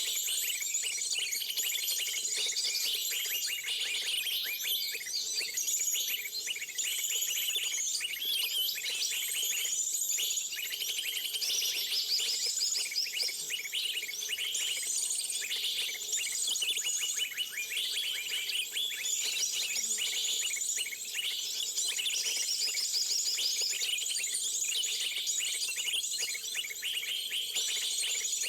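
Many small birds twittering in dense, continuous high-pitched chirps, with a thin steady high tone underneath.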